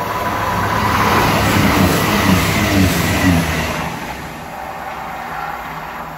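Arriva CrossCountry Class 221 Super Voyager diesel-electric train passing at speed: the diesel engines' note and wheel-on-rail noise build to a peak about two seconds in, then fade as it goes away.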